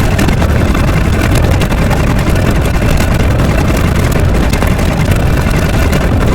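Loud, steady engine-like rumble from a sound effect.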